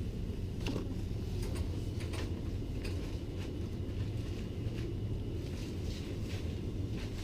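Supermarket background noise: a steady low rumble with scattered light clicks and knocks.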